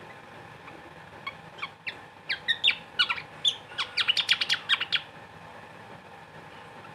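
Sikatan ('pantat goyang' bird) calling: a run of short, sharp down-slurred chirps that speed up into a quick burst of about ten notes, stopping about five seconds in.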